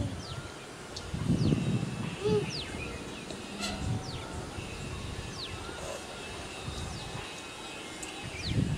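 Birds calling repeatedly with short, high notes that fall in pitch. Low rumbling bursts of noise come about a second and a half in and again near the end.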